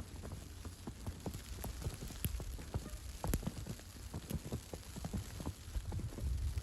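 Footsteps crunching through snow, a dense irregular crackle and patter over a low rumble.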